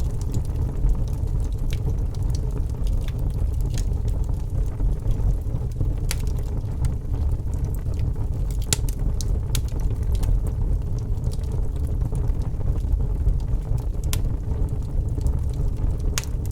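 Wood fire crackling: scattered sharp pops and snaps, a few seconds apart, over a steady low rumble.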